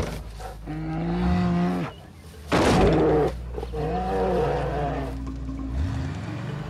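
Grizzly bear bellowing and growling in drawn-out calls as it charges and climbs onto a car, with a harsh, loud outburst about two and a half seconds in. A steady low drone sits underneath.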